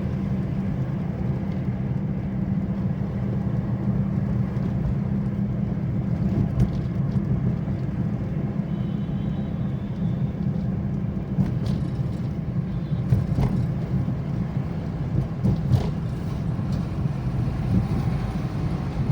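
A motor vehicle's engine running steadily, with a few short knocks and rattles over it.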